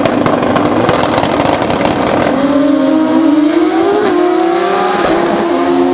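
Drag-racing motorcycle engines running hard. A steady engine note gives way, about two seconds in, to one that climbs in pitch, then drops back at gear shifts near four and five seconds as the bike accelerates down the track.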